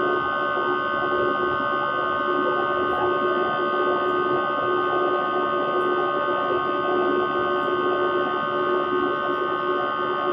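Airbus A320 cabin noise in flight: a steady drone of engines and airflow with several constant whining tones over it, unchanging throughout.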